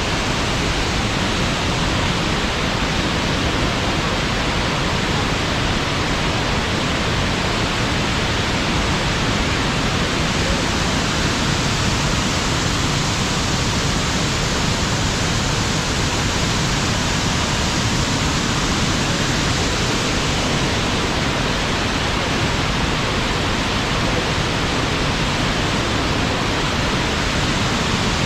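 Waterfall: the steady, loud rush of falling water, unchanging throughout.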